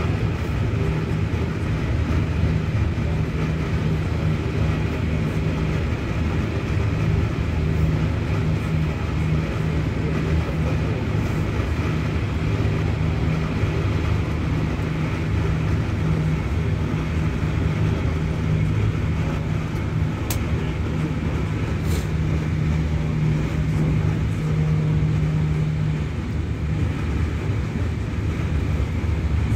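Steady cabin noise of a passenger train running at speed: a low rumble of wheels on rails with a constant hum, which drops away about 26 seconds in.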